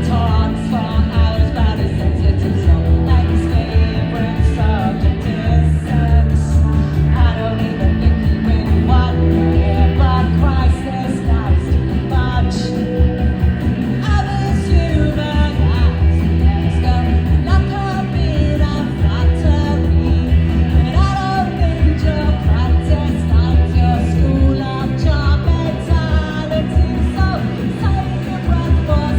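Rock band playing live, with a sung vocal over a loud, steady bass-and-drum groove and guitar.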